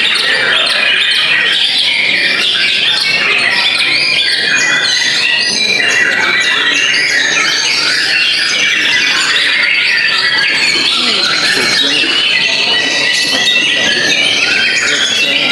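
Many white-rumped shamas (murai batu) singing at once, a dense, unbroken tangle of overlapping chirps and whistles.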